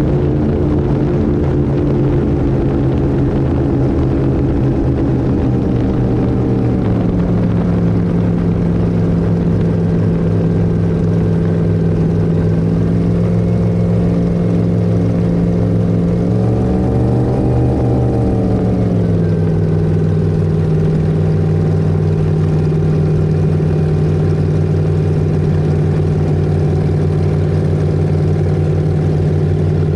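Twin V8 engines of an Avanti 33 powerboat running steadily, with the engine note stepping up about a quarter of the way in and swelling briefly higher before settling back just past the middle.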